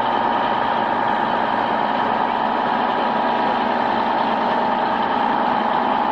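A heavy vehicle engine running steadily under load, with a constant whine above it, as it hauls the tank out on cables.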